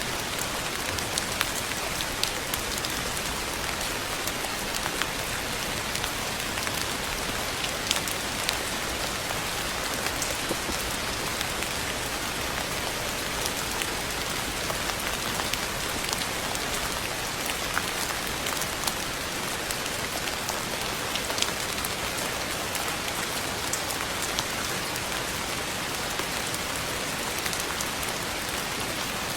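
Steady rain falling on a surface: an even hiss, with many separate drop ticks scattered through it.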